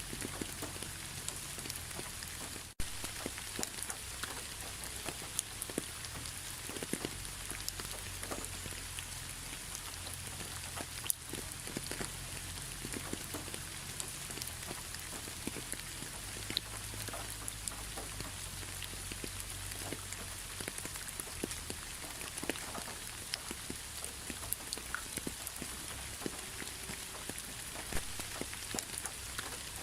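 Steady rain falling, an even hiss with many separate drops ticking close by over a low rumble. The sound cuts out for an instant about three seconds in.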